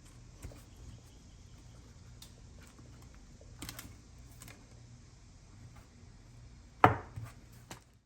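Scattered light clicks and taps over a low steady hum, with one sharp, much louder knock about seven seconds in.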